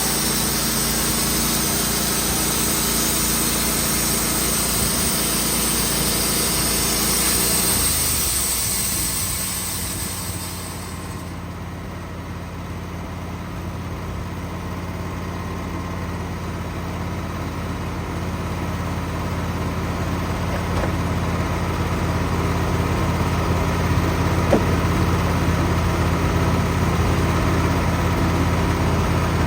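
Wood-Mizer portable band sawmill sawing through a maple log: the blade's steady hiss over the running engine. About ten seconds in the hiss stops as the blade leaves the cut, and the sawmill's engine runs on, growing louder toward the end.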